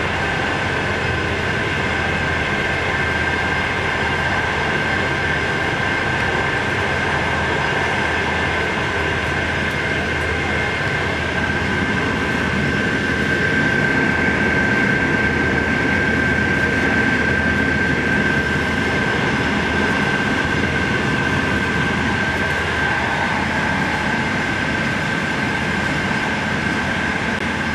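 Passenger train running at steady speed, heard from inside the carriage: an even rumble of wheels on track with a steady high whine held throughout.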